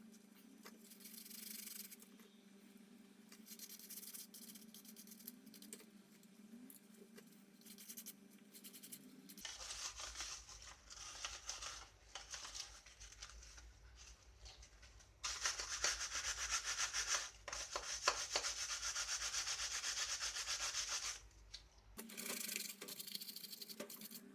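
Sanding by hand: repeated rubbing, scratching strokes, in several separate takes. A louder, steadier stretch of sanding comes in the second half.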